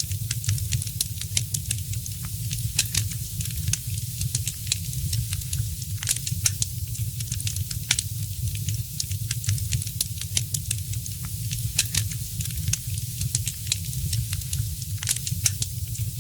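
Wood fire crackling in a fireplace: many irregular pops and snaps, some louder than others, over a steady low rumble.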